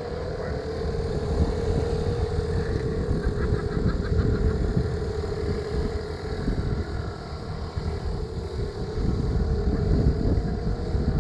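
Small bumper-boat motor running steadily: a constant hum over a rough low rumble.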